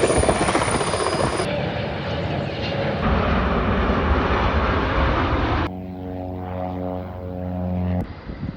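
Airliner engines roaring during takeoff, in several short clips that change abruptly every second or two. About six seconds in, the sound switches suddenly to a steady engine hum with several held pitches, which cuts off again near the end.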